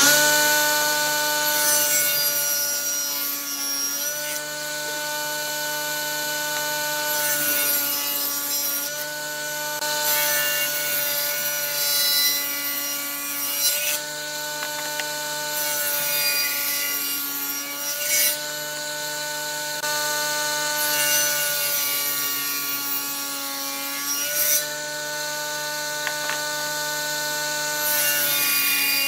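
A woodworking power tool's electric motor runs steadily. Every few seconds there is a stretch of high, scratchy rasping as it cuts or abrades wood, and the motor's pitch sags slightly under the load.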